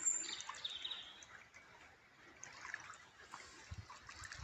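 Small birds chirping over a steady trickle of water. A few high chirps come in the first second, after which the trickling water carries on mostly alone.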